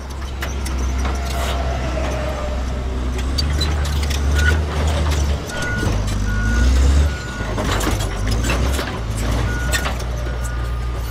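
Construction-vehicle engine rumbling steadily under scattered clicks of plastic track pieces. From about four seconds in, a reversing alarm beeps roughly once a second.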